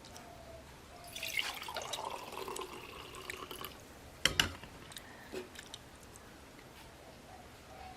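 Liquid pouring or splashing for about two and a half seconds, then a single sharp clink a little past the middle.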